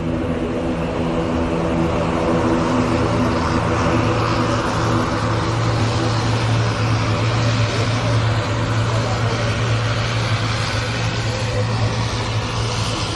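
Aircraft engine running with a steady drone, with a rushing noise over it that swells slightly after the first couple of seconds.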